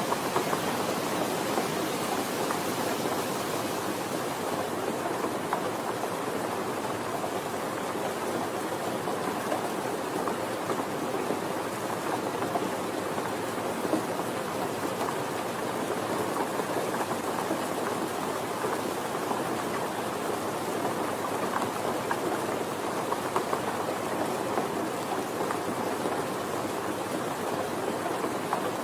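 Steady moderate rain falling, an even patter with scattered individual drops.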